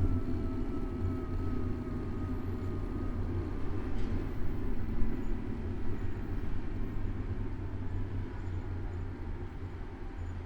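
City street traffic: a steady low rumble of vehicles, with a faint whine that eases slightly down in pitch and fades about four seconds in, and a single sharp knock at about the same moment.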